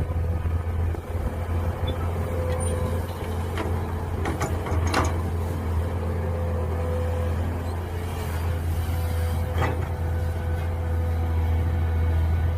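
Mini excavator engine running steadily while digging. A few sharp knocks come about four to five seconds in and another near ten seconds.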